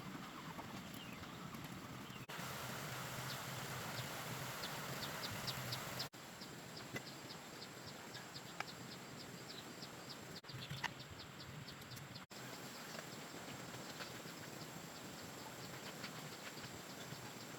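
Rural outdoor ambience with runs of rapid, high-pitched chirps, several times a second, broken by abrupt cuts between scenes.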